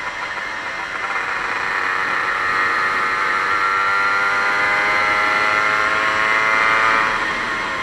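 A 1998 Aprilia RS 125's single-cylinder two-stroke engine pulling under throttle, its pitch climbing steadily for several seconds, then dropping away near the end. The engine has been rebuilt without a power valve.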